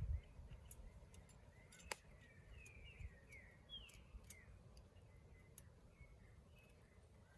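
Quiet outdoor ambience with a faint bird chirping a quick series of short notes about two seconds in. Scattered faint clicks and a low rumble sit underneath.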